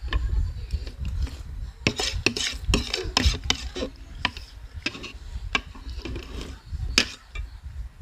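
Metal utensils clinking and scraping against a bowl of noodles while stirring and eating, as short irregular clicks with a busier stretch a couple of seconds in.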